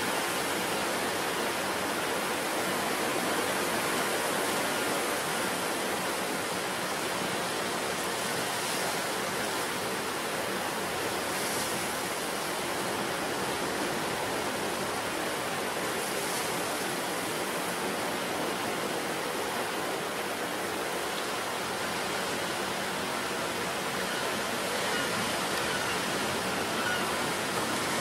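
Ocean surf breaking on the shore: a steady rush of water with a few brief louder splashes in the middle.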